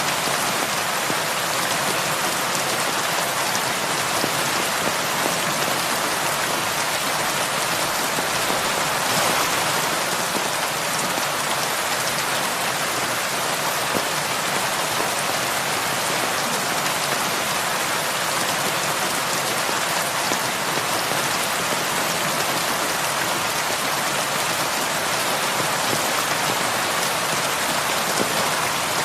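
Heavy rain falling steadily on a roof, an even hiss of drops with no letup.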